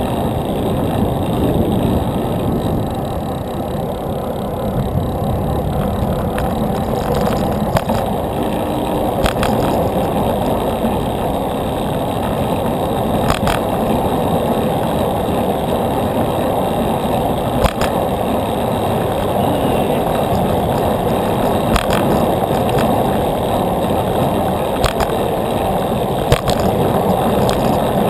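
Steady rushing wind and road noise from riding a bicycle, with a few sharp clicks here and there.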